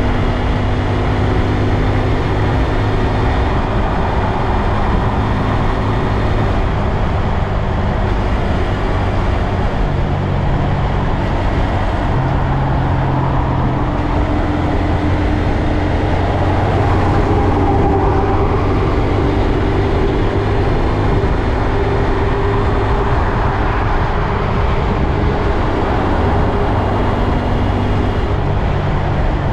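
2022 Honda Grom's 124 cc air-cooled single-cylinder engine running under way, its pitch stepping up and down with engine speed, over a steady rush of road and wind noise.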